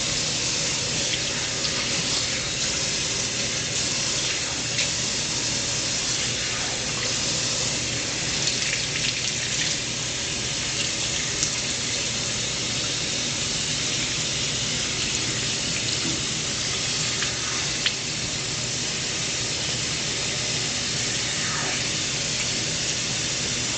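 Bathtub tap running steadily, a constant rush of water, with a few faint clicks.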